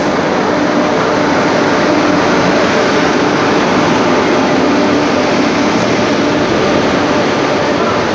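WAP-7 electric locomotive and its coaches passing close by as the express pulls slowly into the platform: a loud, steady rumble of the train on the rails with a faint steady hum from the locomotive.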